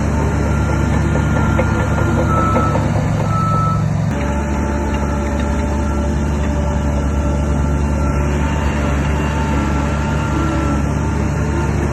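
Heavy earthmoving machinery with a diesel engine running steadily under load, and a reversing alarm beeping over it. The engine sound shifts abruptly about four seconds in.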